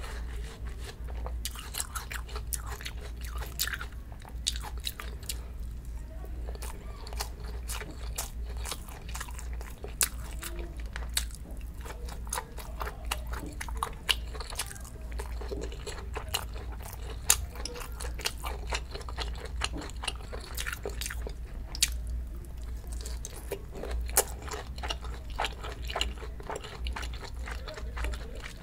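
Close-miked eating sounds: watermelon and other food being chewed and bitten, with many small, irregular wet crunching clicks. A steady low rumble of room noise runs underneath.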